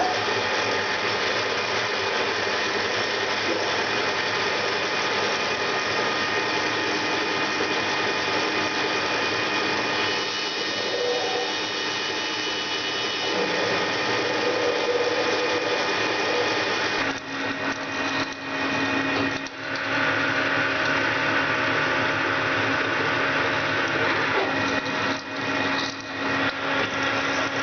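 Metal lathe running, drilling and boring a cold-rolled steel bar under flood coolant: a steady machine whine over a dense noise of cutting, shifting in pitch about halfway through and dipping briefly a few times later on.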